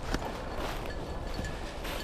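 Footsteps through field cover: a few soft, uneven strikes over a steady outdoor hiss.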